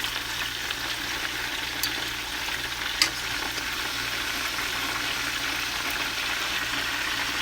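Breadcrumb-coated chicken thighs frying in hot oil in a pan: a steady sizzle, with two sharp clicks about two and three seconds in.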